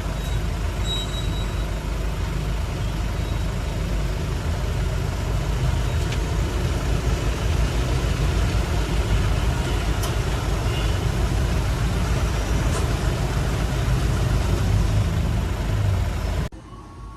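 Steady low rumble of a road vehicle's engine and road noise, cutting off abruptly near the end.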